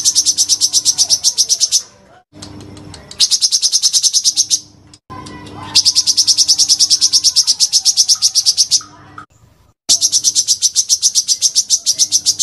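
Songbird singing a fast, evenly repeated high trill of about nine notes a second, the rolling "tembakan" prized in Indonesian contest birds. It comes in four runs of one and a half to three seconds with short breaks between, over a low steady hum.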